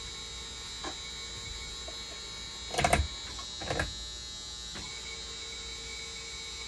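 Steady electrical hum with a high, thin whine, broken about three seconds in by two short clattering bursts of handling noise, with a couple of faint clicks.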